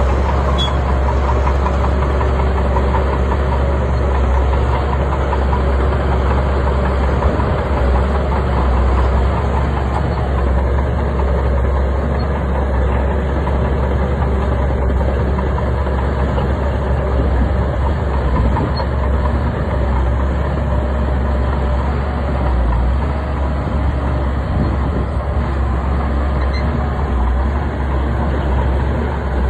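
Bulldozer's diesel engine running steadily under load, a deep continuous drone.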